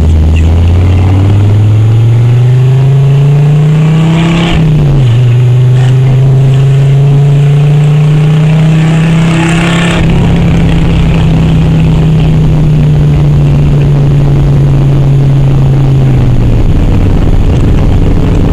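Audi 100 C3 quattro's inline five-cylinder engine running very loud with no exhaust fitted, heard from inside the cabin. It pulls up in pitch through a gear, drops sharply at a gear change about four and a half seconds in, and pulls up again. It then holds steady for several seconds before easing off to a lower note near the end.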